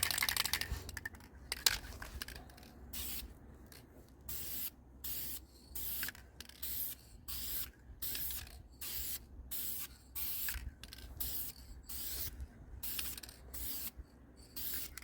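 Automotive base-coat paint being sprayed in short, quick bursts of hiss, about one and a half a second, starting about three seconds in: the first light coat going onto the rust-repaired body panel.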